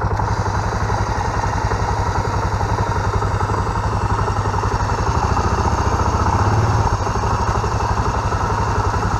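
Small off-road vehicle engine idling with a steady, fast pulse; the revs rise a little about five seconds in and drop back to idle at about seven seconds.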